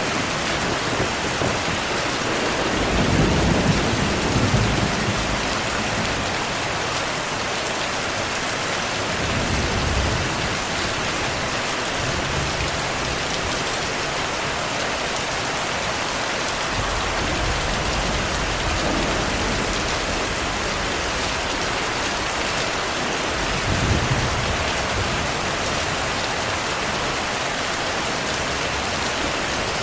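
Heavy rain falling steadily, with low rumbles of thunder rolling in a few seconds in and again near the end.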